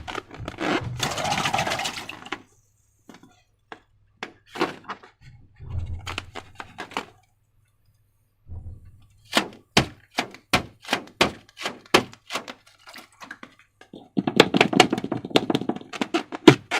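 Slime being squished and handled: spells of sticky, wet crackling, with a run of sharp clicks about three a second in the middle.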